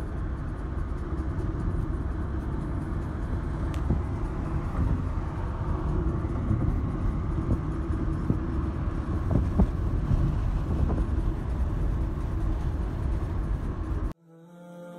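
Steady low rumble of a car on the move. Near the end it cuts off abruptly and a sung nasheed begins.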